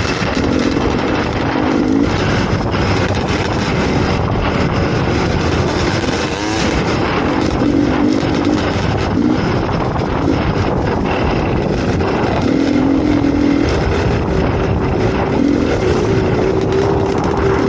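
Dirt bike engine running as the bike rides along, its note shifting with the throttle, with a brief rise in pitch about six seconds in.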